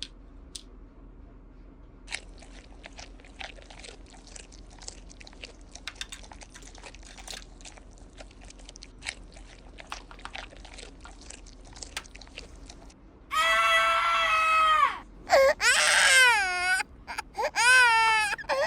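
Faint scattered clicks and taps of small plastic toys being handled. About two-thirds of the way in, a loud wavering baby cry starts, in several short stretches.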